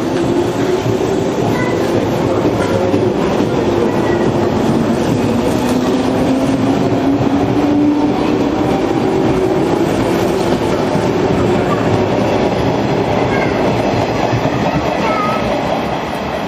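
JR Musashino Line 103-series electric train running, with a low traction-motor whine that slowly drifts in pitch over the steady rumble and clatter of its wheels on the rails.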